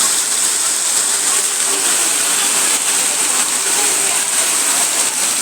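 Steady, loud rush of floodwater after heavy rain, an even hiss of water with faint voices underneath.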